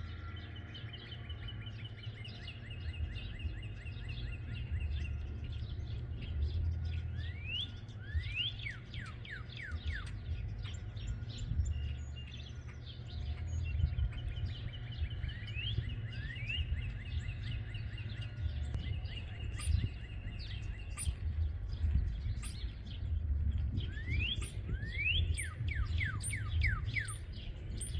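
Small birds chirping and calling, with two quick runs of sharp, rising notes, over a low rumble of wind on the microphone.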